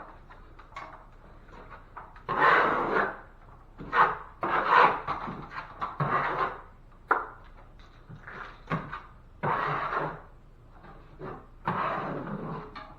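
Drywall knife scraping quick-set joint compound over fiberglass mesh tape in a series of about eight short strokes, each under a second. The mud is being pressed into the mesh to strike in the tape before the first coat.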